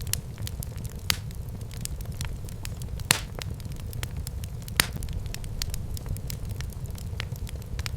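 Wood fire burning in a fireplace: a steady low rumble of the flames with frequent sharp crackles and pops, three of them louder than the rest.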